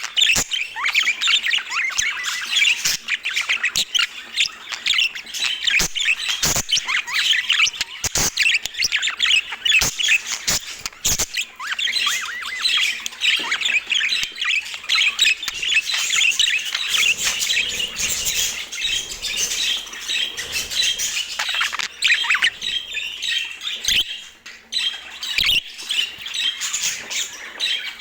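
Budgerigars chattering and squawking in a continuous stream of fast, high chirps, with occasional sharp clicks.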